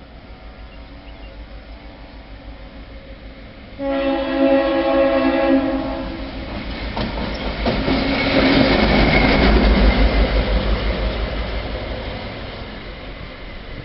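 Metro-North GP35R diesel locomotive passing: about four seconds in it sounds its multi-note air horn for about two seconds, then its engine and wheels go by loudly, clacking over the rail joints, and fade away.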